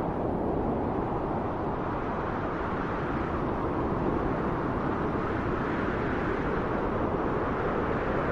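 Steady wind blowing, a deep even rush that swells a little in the middle.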